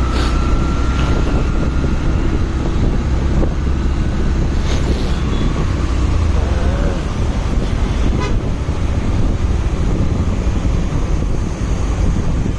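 Steady wind rumble and road and traffic noise of a motorcycle ride in traffic. A thin steady high tone, like a horn, sounds for the first few seconds, with a few short clicks later.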